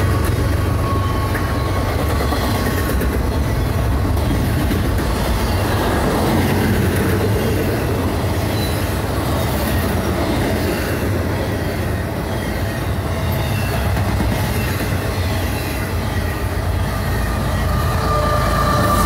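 Loaded double-stack intermodal well cars of a freight train rolling past at speed: a steady, loud rumble of steel wheels on the rails. Over the last second or two a locomotive's engine sound comes up as the train's mid-train GE ES44AH distributed-power unit draws near.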